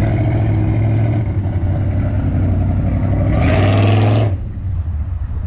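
A car engine running steadily, swelling louder for about a second shortly after the midpoint, as if revved or accelerating, then easing back.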